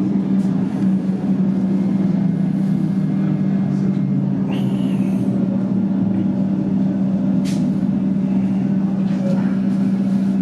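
Comeng electric train standing at the platform, its onboard equipment giving a steady low hum. A short hiss of air comes about halfway through, and a sharp click a few seconds later.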